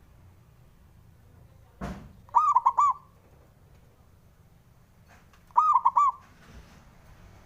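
Zebra dove (perkutut) cooing: two short phrases of three quick, rounded notes, a few seconds apart. A brief knock comes just before the first phrase.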